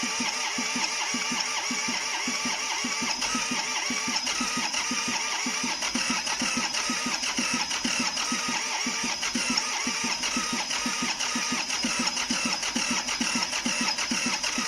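John Deere 855's three-cylinder diesel being cranked over by its electric starter: a steady starter whine over a fast, even chug of compression strokes, without the engine catching. The engine won't start, which the owner suspects is a fuel problem.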